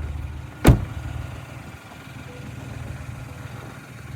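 GMC Yukon's 5.3-litre V8 idling after a −24° cold start, with one sharp, loud thump less than a second in; the idle is fainter after the thump and comes back up near the end.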